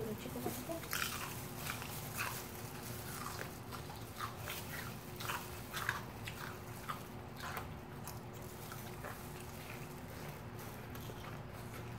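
Close-up crunching bites and chewing of crispy fried chicken, coming as irregular crunches that thin out after about eight seconds.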